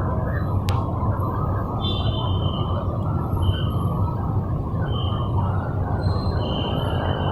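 Steady rumbling vehicle and road noise, with a few short high-pitched tones and a single sharp click about a second in.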